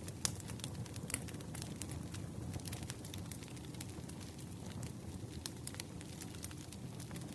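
Wood fire crackling: irregular sharp pops and snaps over a steady low rumble, with the sharpest pop about a quarter second in.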